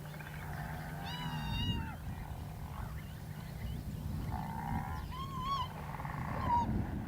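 A captured lechwe antelope calf giving high, wavering distress bleats, three or four calls. A low steady rumble sits underneath and fades out about two seconds in.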